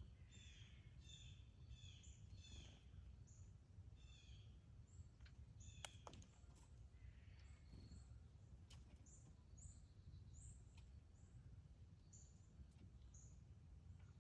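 Faint outdoor birdsong: a bird repeats a short chirping phrase about twice a second for the first few seconds, followed by scattered high chirps over a low steady rumble. A sharp click comes about six seconds in and another near nine seconds.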